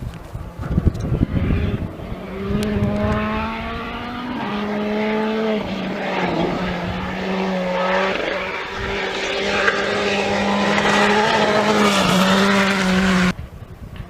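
Rally car on a gravel special stage, its engine loud and at full throttle. A noisy rush of gravel and tyres comes in the first second or so, then a steady engine note that steps up and down through several gear changes. It cuts off suddenly near the end.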